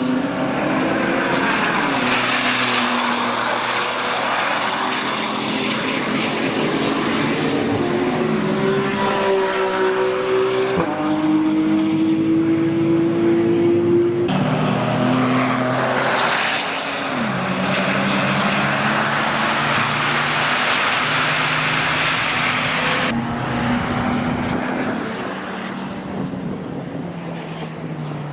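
Porsche 997 Turbo's 3.6-litre twin-turbo flat-six through a Milltek straight-pipe exhaust, accelerating through several gear changes: the engine note climbs in pitch, then drops at each shift. It eases off a little near the end.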